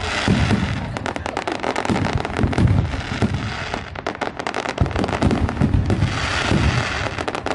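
Fireworks going off: a dense, rapid crackle of many small pops with repeated deep booms. A hissing crackle swells near the start and again about six seconds in.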